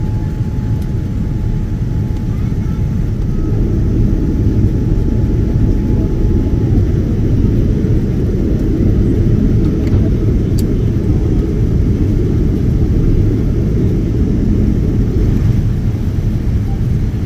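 Airliner cabin noise during landing: a steady low rumble of engines and airflow that grows louder about four seconds in. A faint steady tone stops about seven seconds in.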